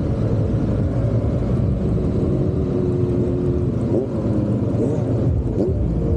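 Triumph parallel-twin motorcycle engine running while riding, with the pitch rising briefly a few times in the second half as the revs climb.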